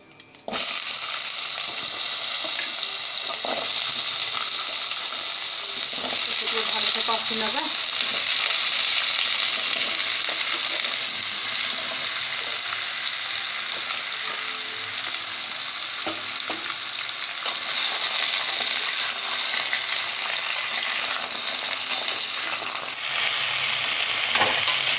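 Diced mixed vegetables frying in hot oil in a pot. A loud sizzle starts suddenly about half a second in as the vegetables go into the oil, then runs steadily while a flat spatula stirs them, with occasional scrapes.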